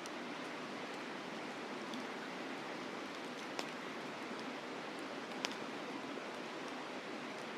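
Campfire crackling, with a few sharp pops, the two loudest about three and a half and five and a half seconds in, over the steady rush of a mountain river.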